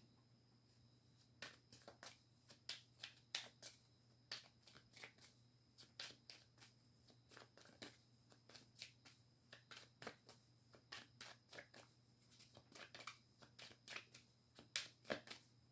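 A deck of reading cards being shuffled by hand to draw clarifier cards: faint, quick card flicks and taps in irregular clusters.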